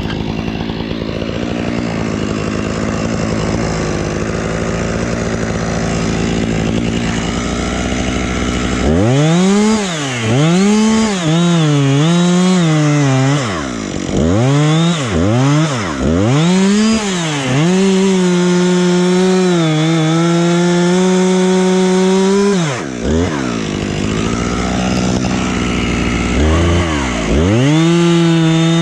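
Husqvarna chainsaw running steadily, then revved up and down again and again from about nine seconds in. It holds at high revs for a few seconds, drops, and revs up again near the end.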